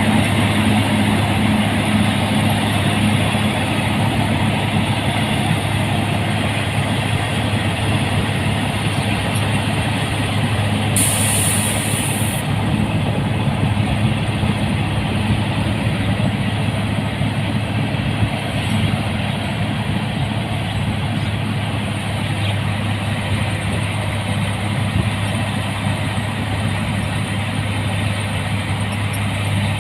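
Rice combine harvester's diesel engine running at a steady, constant pitch, with a low hum and machinery noise over it. A brief high hiss about eleven seconds in.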